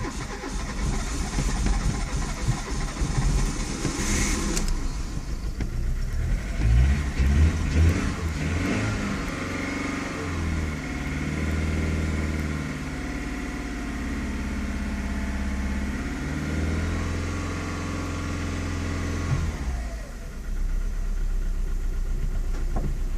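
Seat Arosa 1.0-litre petrol engine being cranked on the starter with a fast, even pulsing for the first few seconds. It then runs with revs rising and falling over the middle stretch and settles into a steady low rumble near the end, on a car its owner says had trouble starting.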